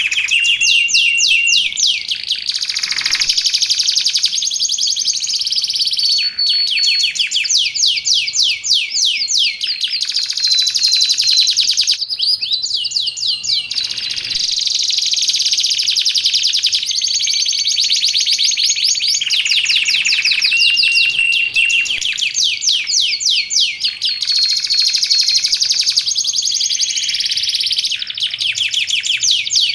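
Canary singing a long, continuous song of fast high trills, broken now and then by short steady whistled notes.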